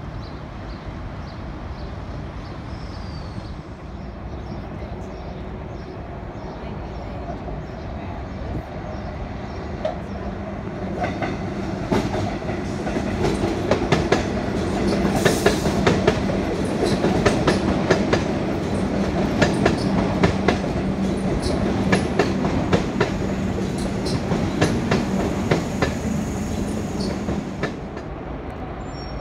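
Melbourne suburban electric train passing, its wheels clacking rapidly over rail joints and points, with a steady low hum. The sound builds from about ten seconds in, stays loud through the middle and drops away near the end.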